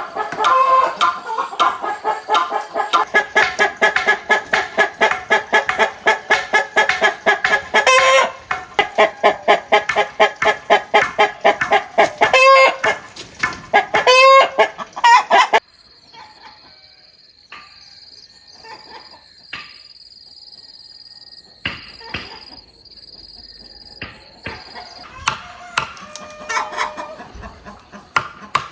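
A flock of chickens clucking loudly and rapidly, with a few longer drawn-out calls among them. About halfway through it cuts off suddenly, leaving a thin high steady tone and a few scattered knocks.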